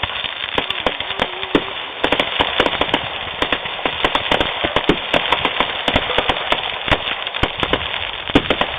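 Fireworks going off in a rapid run of sharp cracks and pops, the cracks coming thicker and faster from about two seconds in.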